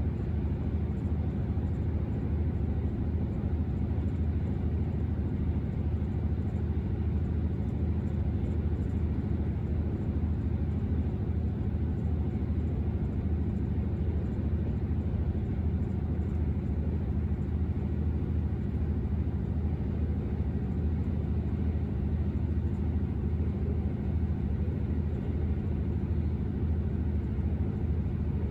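Steady low rumble inside a moving diesel passenger train: engine drone and wheels running on the track, unchanging throughout.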